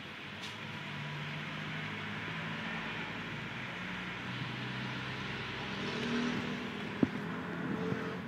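Toyota Avanza's engine running at idle while it is being tuned, with a sharp click about seven seconds in.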